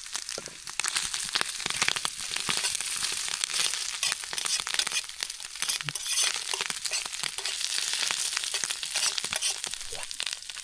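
Maple bacon frying in a pan, a steady dense sizzle full of small crackles and pops.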